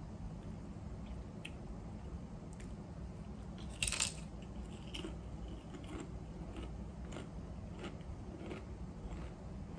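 Person biting and chewing ridged Ruffles Flamin' Hot barbecue potato chips: one loud crunch about four seconds in, then a run of quieter crunches as the chip is chewed.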